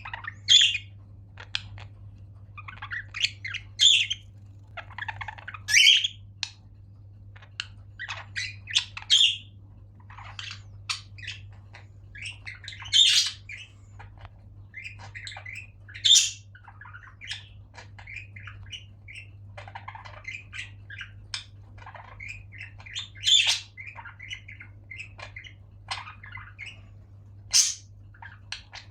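A flock of caged pet budgerigars, with a cockatiel among them, chattering and chirping nonstop, broken by loud sharp squawks every few seconds. A steady low hum runs underneath.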